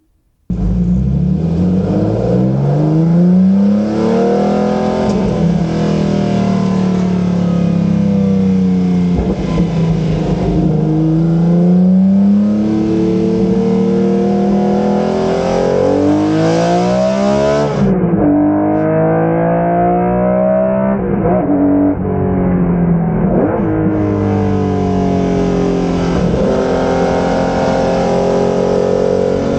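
1981 BMW M1 IMSA race car's inline-six at full throttle, revving up through the gears again and again, its pitch climbing and then dropping back at each gear change.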